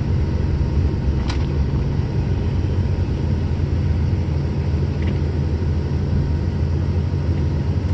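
Steady low rumble of a vehicle's engine and road noise, heard from inside the cab while driving, with one short click about a second in.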